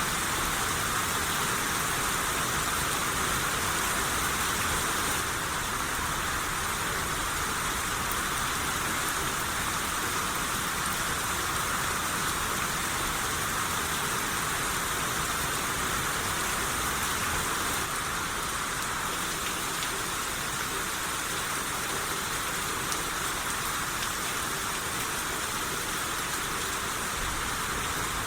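Steady rain shower: an even hiss of rain falling, with no distinct drops or thunder standing out.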